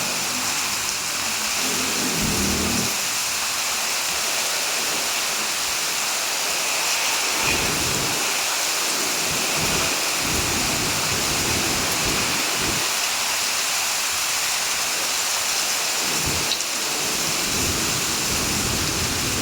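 Heavy rain falling steadily, a dense even hiss, with low rumbles coming and going underneath.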